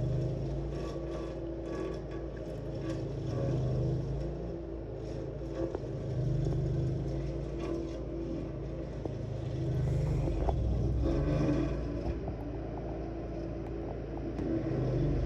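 27-horsepower stump grinder's engine running under load as its cutting wheel grinds through a large tree stump, swelling louder for a few seconds at a time with each pass. Heard from inside the house through a window.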